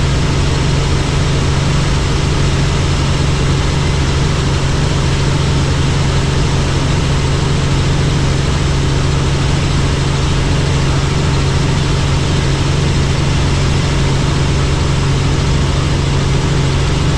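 Helicopter in flight: the steady, unchanging drone of its rotor and turbine engine, with a constant low hum and a wash of noise over it.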